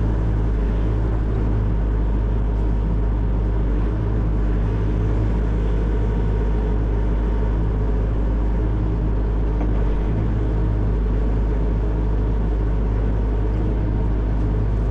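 Excavator's diesel engine running steadily, a constant low drone with no change in pitch or level.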